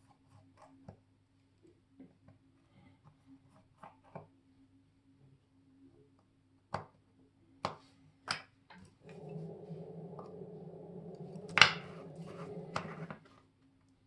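Small sharp clicks of metal watchmaker's tools on a wristwatch's parts: light ticks, then three distinct clicks. A steady low buzz follows and lasts about four seconds, with one loud click in the middle of it.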